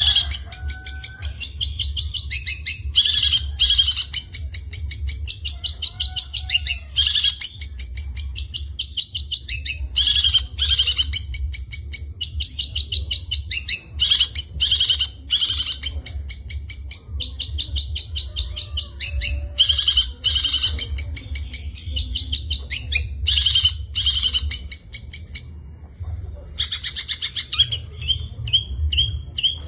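Long-tailed shrike singing a long, rapid, chattering song packed with mimicked phrases of other birds. It breaks off briefly near the end, then resumes with a run of short repeated notes, over a steady low hum.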